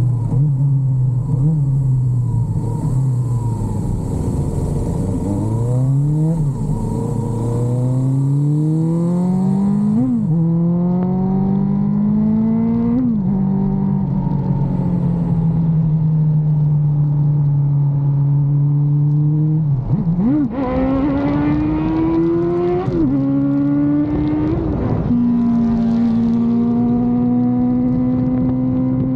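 Suzuki Bandit motorcycle's inline-four engine under way, its pitch climbing as it accelerates and dropping abruptly at each gear change, with a steady cruising stretch in the middle. Wind and road noise run underneath.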